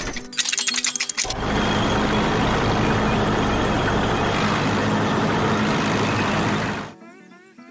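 Cartoon sound effect of a heavy vehicle engine: a rapid clattering in the first second, then a steady running drone that dies away near the end, with soft music coming in after it.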